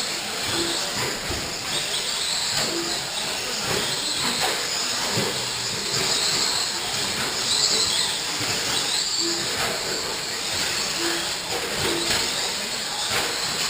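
RC short-course trucks racing on a dirt track: a steady hiss of motors and tyres, with motor whines rising and falling as the trucks speed up and slow. Short beeps sound now and then.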